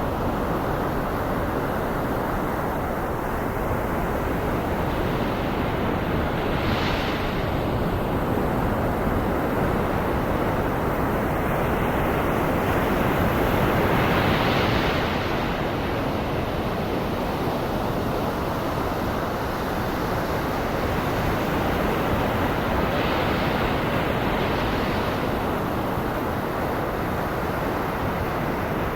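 Ocean surf blended with steady white noise, with waves swelling and washing in about every eight seconds.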